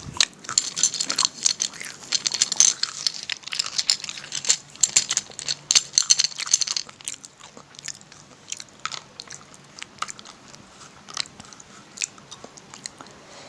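Close-up biting and chewing of slate pencils, dense crisp crunches for about the first seven seconds, then slower, sparser crunches.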